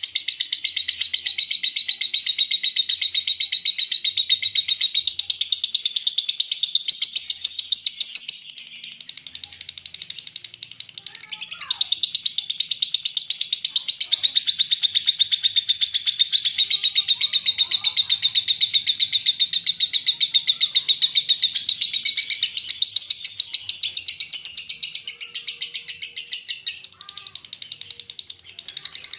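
Lovebird singing a long, unbroken 'ngekek' chatter in the 'konslet' style: a very fast, high-pitched run of many notes a second. It falters briefly about eight seconds in and again near the end.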